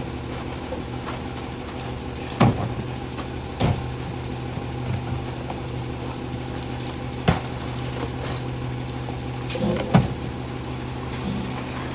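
Garbage truck engine running steadily, with four sharp knocks spread through, the loudest about ten seconds in.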